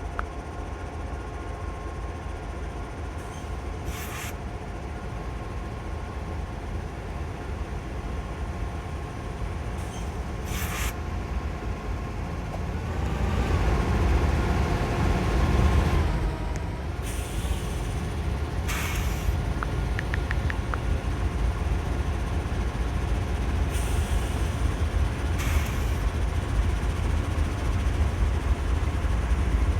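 Norfolk Southern freight train running: a steady low rumble of the train on the rails, with a few brief clicks, swelling louder about 13 to 16 seconds in.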